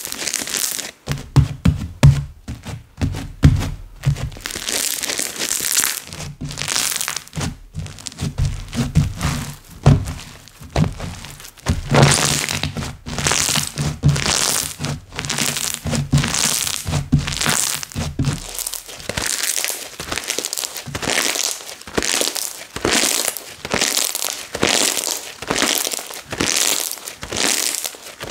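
Slime being squeezed and stretched by hand, giving a rapid, irregular run of crackling and popping clicks, with music playing underneath until about two-thirds of the way through.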